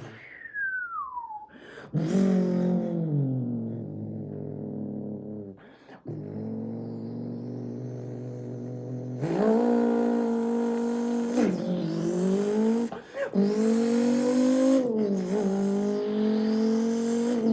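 A man's mouth imitation of a Porsche 911 GT2 RS engine. It opens with a falling turbo-style whistle, then a buzzing engine note that rises in pitch. After about nine seconds it gets louder and rises and drops sharply three times, like revving up through gear changes.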